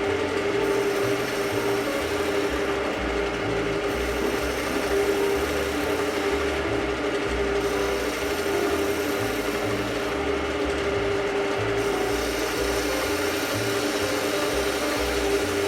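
Skew chisel cutting a bead into wood spinning on a lathe: a steady motor hum under a hissing, rasping cut. The high hiss eases off briefly every three to four seconds between passes.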